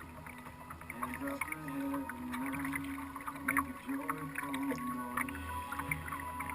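Water around a kayak, with many small splashes and drips, under a song playing on the water with a melody that steps up and down.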